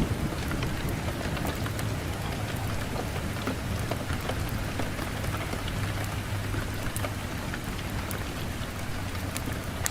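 Wood fire burning in a fireplace: a steady hiss and low rumble of the flames with scattered sharp crackles and pops from the burning logs.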